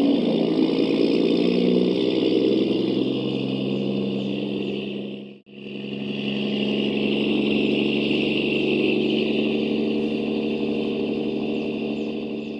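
Radio-controlled truck's drivetrain running steadily, a sustained motor-and-gear whine with a high-pitched edge. It cuts out for a moment about five seconds in, then picks up again.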